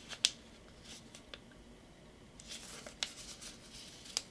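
A sheet of copy paper rustling and crinkling as it is folded and creased by hand, with a few sharp crackles of the paper, the loudest about a quarter second in.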